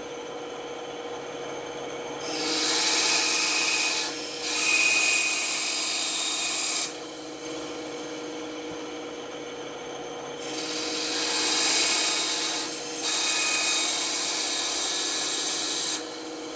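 Band saw running with a steady hum, its blade cutting through wood while a circle is sawn out. There are two long cutting passes, each a few seconds long with a short break in the middle: one about two seconds in and one about ten seconds in.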